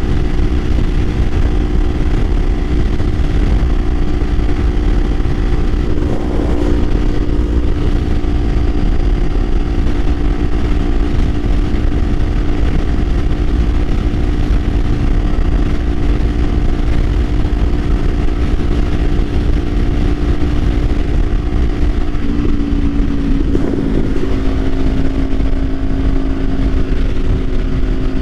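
Kawasaki Ninja 500's parallel-twin engine running at a steady cruising speed, under heavy wind rush on the camera microphone. The engine note drops a little about 22 seconds in and again a couple of seconds later.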